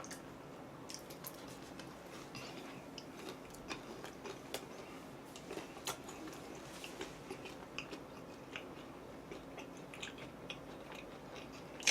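A person chewing thin-crust pizza with soft crunches and small wet mouth clicks scattered through.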